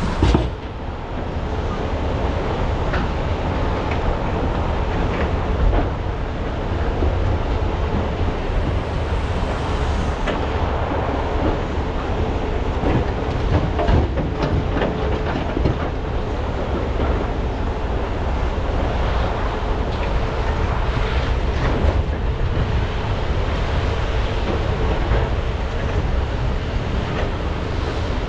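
Diesel engines of large hydraulic excavators (a Komatsu PC395 and SANY SY485Hs) running under load in a steady deep rumble, with scattered knocks and clatter from the machines loading material into trucks.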